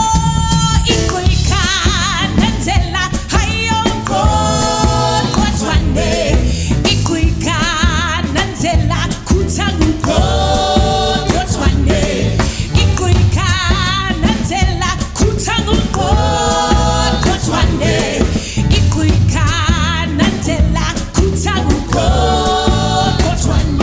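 Band music starting up suddenly into an upbeat number with a steady bass and drum groove under a repeating melody sung or played with heavy vibrato.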